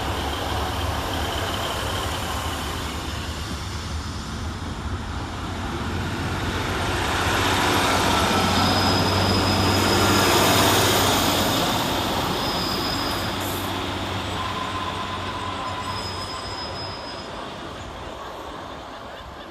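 Class 150 Sprinter diesel multiple units moving through the station, one arriving and one departing: underfloor diesel engines running and wheels rumbling on the rails, building to a peak about ten seconds in and then fading away. Brief high-pitched wheel squeals sound near the peak and again a little later.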